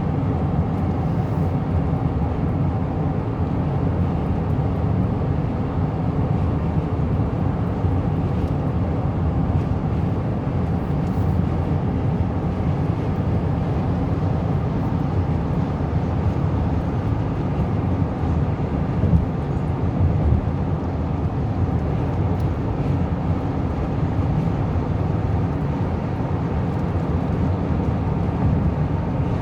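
Steady road and engine noise inside a car cruising on a highway: an even low rumble of tyres and wind that holds level throughout.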